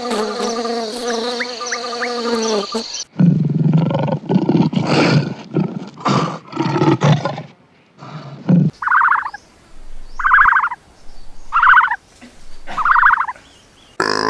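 A run of different animal calls. First a long held bleat with a steady high buzz behind it, cut off about three seconds in. Then about five seconds of loud, low, pulsing calls. Then four short raspy calls about a second apart.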